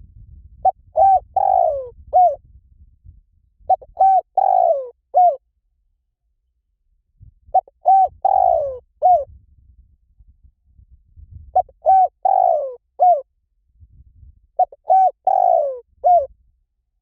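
Spotted dove cooing: five repeated phrases, each two short coos, a longer falling coo and a last short coo, about three to four seconds apart.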